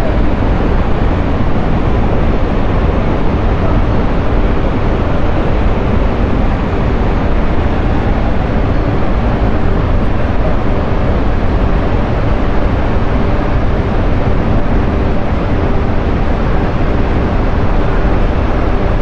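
Loud, steady noise of a tall waterfall's falling water, unbroken and heaviest in the low end.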